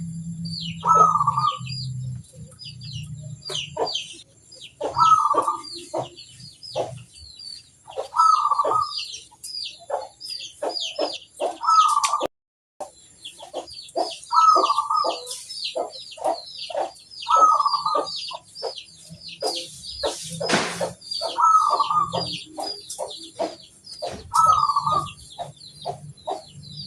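Zebra dove (perkutut) cooing its song over and over, one phrase every three to four seconds, each a rolling coo followed by a quick run of short notes. Faint high chirping of small birds runs between the phrases.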